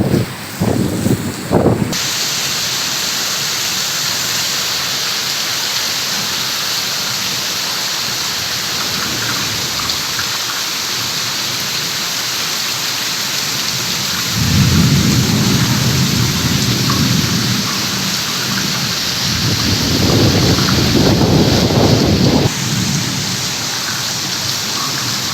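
Heavy rain falling in a steady hiss. Low rumbles swell up twice, about halfway through and again near the end, and there are short low gusts in the first two seconds.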